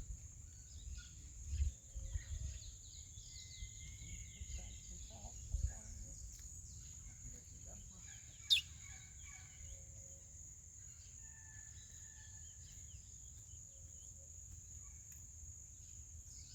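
Small birds chirping and calling faintly, with a steady high-pitched drone and a low rumble underneath. One short, sharp, loud chirp comes about eight and a half seconds in.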